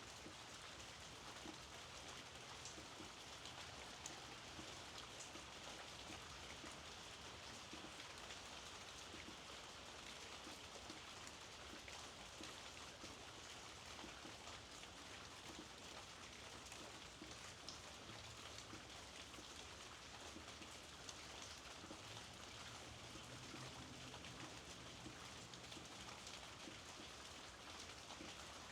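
Steady, soft rainfall, with many small drops ticking.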